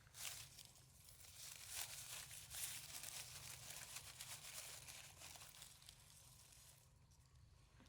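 Faint rustling and crackling, a dense run of small crunches that fades about six and a half seconds in, over a low steady hum.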